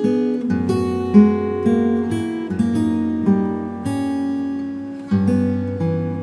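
Acoustic guitar playing a slow, calm instrumental piece, notes plucked one after another over sustained bass notes.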